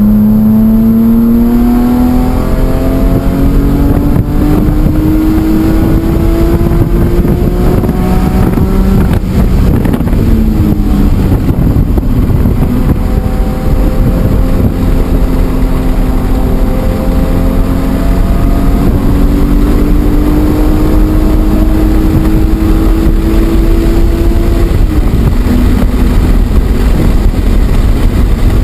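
BMW E46 M3's S54 straight-six engine under hard acceleration on track, its pitch climbing steadily through two long pulls, each ending in a sudden drop in revs (about nine seconds in and again near twenty-five seconds). Dense road and wind noise runs underneath.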